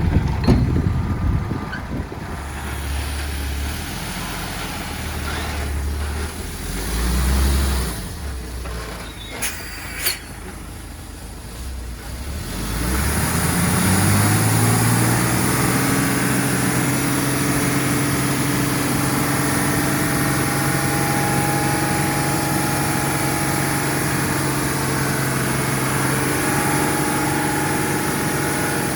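Heavy diesel engine of earthmoving equipment running low and uneven, with two sharp clicks about ten seconds in. About thirteen seconds in it rises in pitch and holds a steady higher drone.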